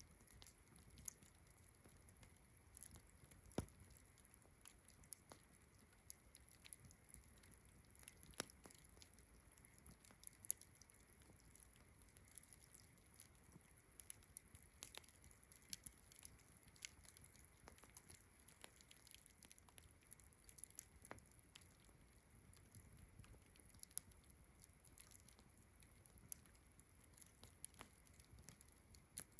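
Campfire crackling, with irregular sharp pops and snaps, the loudest about 3.5 s and 8.5 s in. Behind it runs a steady high-pitched chirring of crickets.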